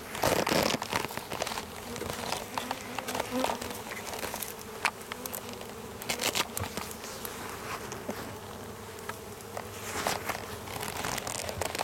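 Honeybees buzzing steadily around an open hive, with scattered clicks and knocks from the hive being handled.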